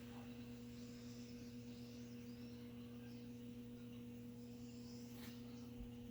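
A low, steady electrical mains hum, with a couple of faint small clicks near the end.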